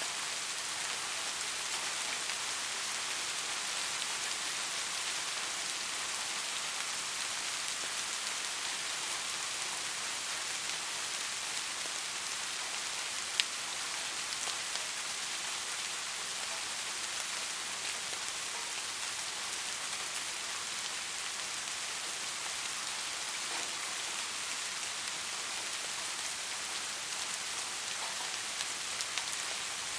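Steady rain falling, an even hiss of many drops, with one sharp drip click about 13 seconds in and a few small ticks near the end.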